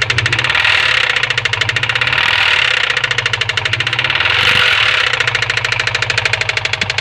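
2003 Subaru WRX engine running with a fast, even knocking, about ten knocks a second, that swells louder about a second in and again around four and a half seconds.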